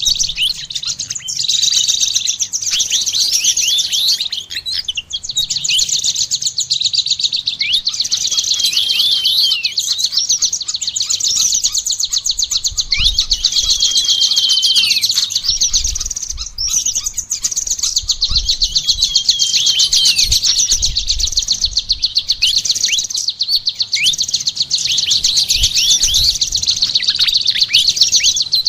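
Songbirds singing a dense, continuous stream of fast, high chirps and quick descending trills, a mixed recording of a konin with other songbirds.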